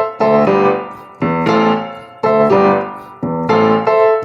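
Keyboard chords played as a song's instrumental intro, one chord struck about once a second and left to die away before the next.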